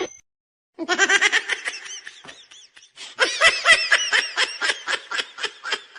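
A person laughing hard: two fits of quick, repeated high-pitched bursts of laughter, about five a second, with a short break between them.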